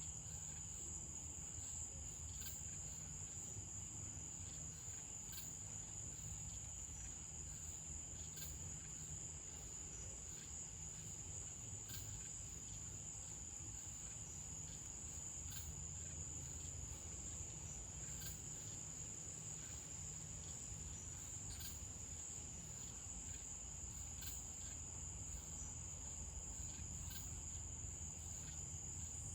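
Night-time crickets trilling in one continuous, steady high-pitched chorus, with faint scattered ticks and a low background rumble.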